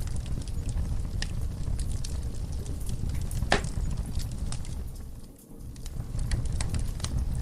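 Wood fire burning in a fireplace: a steady low rumble of flames with scattered crackles and pops, one sharper pop about halfway through. The sound dips briefly about two-thirds of the way in.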